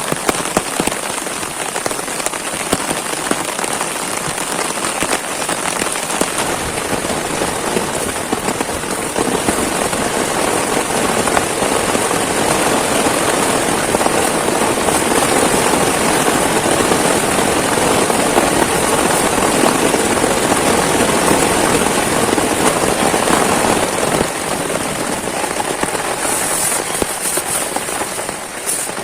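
Heavy rain pattering steadily on a surface, heavier in the middle and easing slightly near the end.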